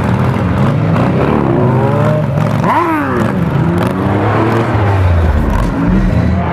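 Car engine revving, its pitch rising and falling, with a quick sharp rev about three seconds in and a deeper rumble from about five seconds.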